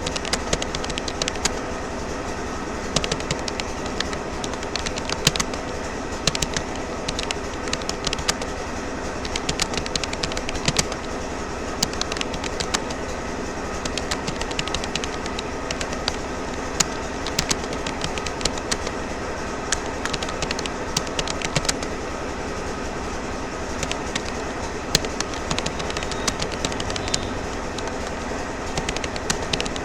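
Rapoo computer keyboard being typed on at a steady touch-typing pace: a continuous run of irregular key clicks over a steady background hum.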